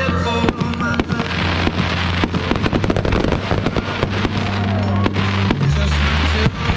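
Fireworks going off in quick succession: many sharp bangs and crackles, with music playing underneath.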